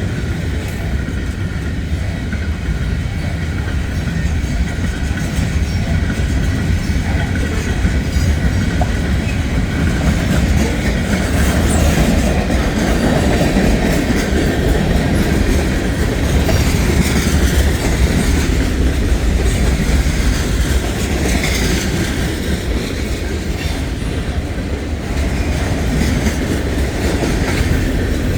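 Heavy freight train rolling past, steel wheels on the rails making a loud, steady rumble.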